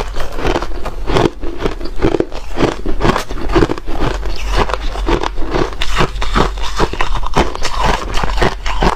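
Ice being bitten and chewed close to the microphone: a dense run of sharp, irregular crunches, several a second.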